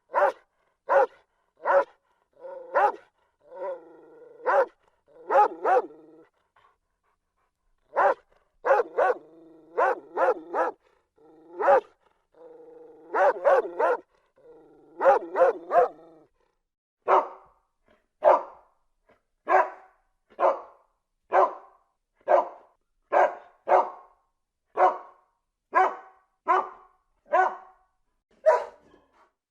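A dog barking: quick runs of barks with a short pause about six seconds in. From about halfway, it settles into single barks at an even pace, a little more than one a second.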